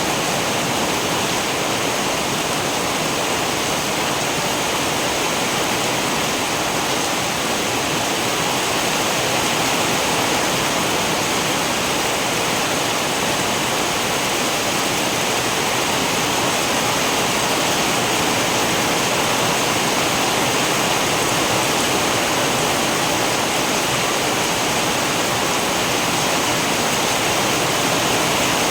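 Steady heavy rain, a dense even hiss that stays unchanged throughout.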